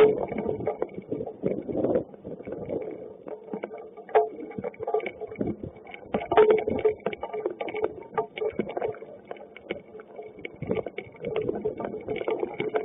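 Hail and rain during a thunderstorm: a dense, irregular clatter of sharp clicks as hailstones strike hard surfaces, over a steady wash of rain.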